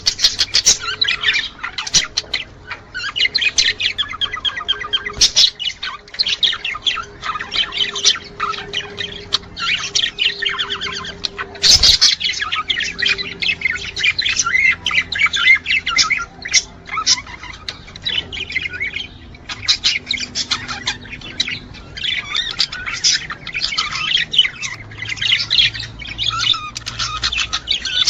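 A group of budgerigars chattering and warbling continuously, with fast chirps and squawks, the kind of male budgie song used to stimulate breeding. A sharp click sounds about twelve seconds in.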